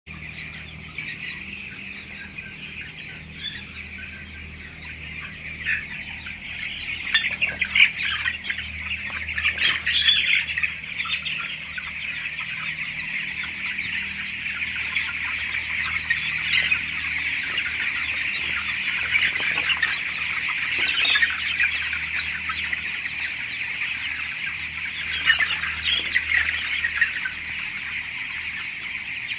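A flock of 19-day-old chicks cheeping continuously, many calls overlapping into a dense chatter, with louder squawks standing out about a quarter of the way in and a few more later on.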